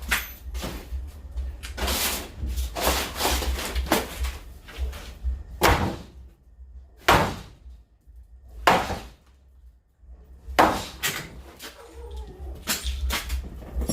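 Irregular heavy knocks and bangs of wooden boards being struck and broken apart in demolition work, a dozen or so with uneven gaps between them.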